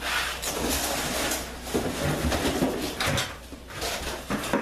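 Tin foil and cardboard wrapping being pulled off and crumpled in irregular rustling, crinkling bursts as a makeshift oven is taken apart.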